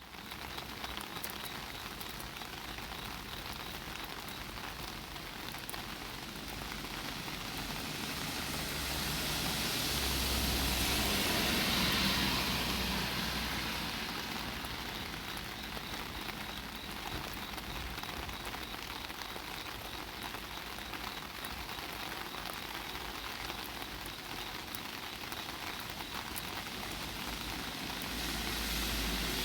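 Steady rain pattering on an umbrella overhead. A car passes on the wet road, swelling up and fading away between about eight and fourteen seconds in, and another starts to approach near the end.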